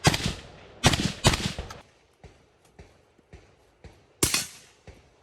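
Suppressed AR-15 carbine firing: three shots within about a second and a half, then a row of faint ticks, and one more shot about four seconds in.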